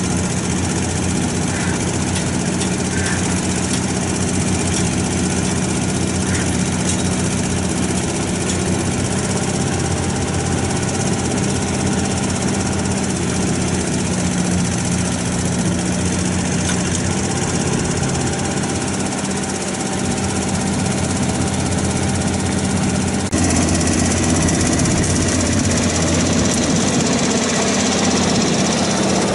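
1997 Ford utility boom truck's engine idling steadily. About 23 seconds in, the sound steps up louder and holds there.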